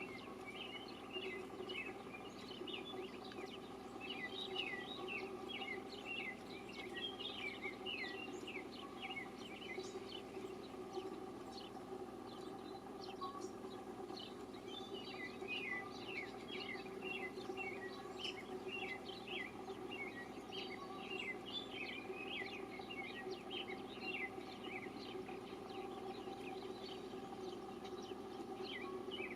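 Small birds chirping, a dense run of short chirps all through, over a steady low hum.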